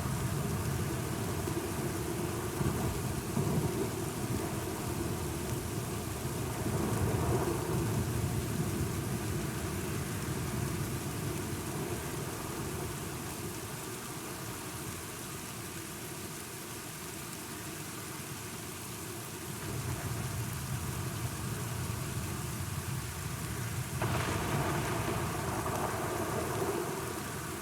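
Steady rainfall with low, rolling thunder rumbling in slow swells, and a sudden louder swell of thunder near the end.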